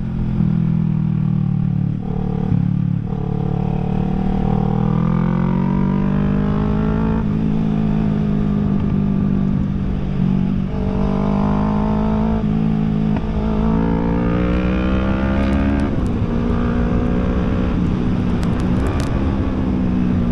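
Kawasaki Ninja 650's parallel-twin engine running while riding. Its pitch climbs under throttle and drops back several times as the rider shifts or rolls off.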